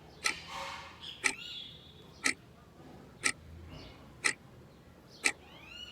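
Sharp clicks, evenly spaced about once a second like a steady tick, with faint high chirping squeaks between some of them.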